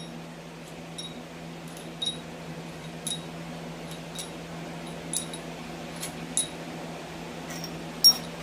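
Steady hum of a shop fan, with light metallic clinks about once a second while head bolts are handled on a small-block Chevy 350 teardown.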